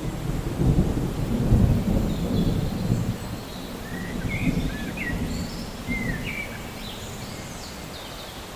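Steady rain with a low rolling rumble of thunder that is loudest in the first three seconds and then dies away.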